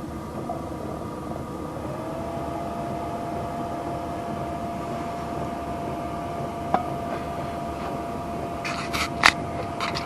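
Diesel tent heater running with a steady hum and whine. About two seconds in, its tone rises a little and then holds as the heater ramps up its output. Near the end come a few sharp clicks and rustles of handling.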